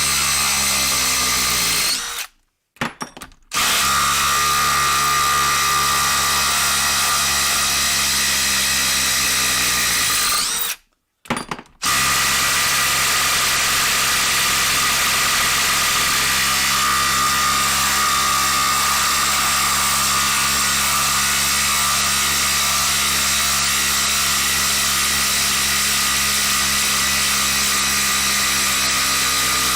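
Cordless impact driver running flat out, hammering at a fastener that is hard to break loose. It stops twice briefly, about two seconds in and again about eleven seconds in, winding down each time before starting again.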